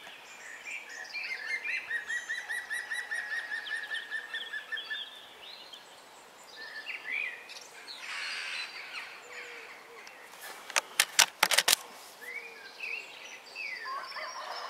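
Wild songbirds singing, with a long run of fast repeated notes for the first few seconds and scattered calls after it. About eleven seconds in there is a quick rattle of about six sharp clicks, the loudest sound.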